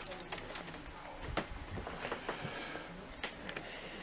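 Faint cooing of doves, with a few light clicks.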